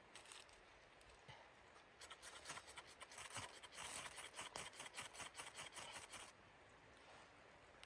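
Faint scraping and rustling with many small clicks, starting about two seconds in and stopping suddenly about four seconds later.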